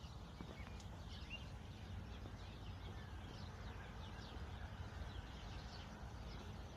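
Small birds chirping in short, quick, falling notes over a steady low outdoor rumble.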